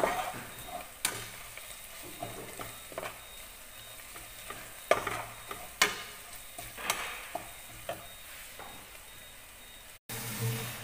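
A metal spatula stirs and scrapes sliced shallots, garlic and spices frying in an aluminium pot: a steady light sizzle with sharp clinks of metal against the pot every second or two.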